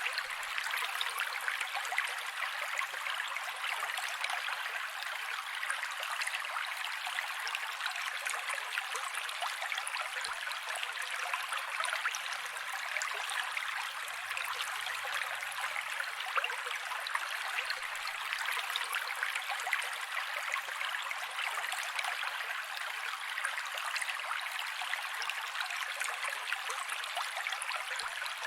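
Mountain creek water flowing steadily over rocks, a continuous rushing babble with small splashes throughout.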